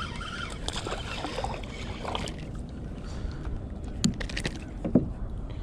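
Outdoor noise around a kayak on the water: a steady low rumble of wind on the microphone and water, with a few sharp clicks or knocks about four seconds in.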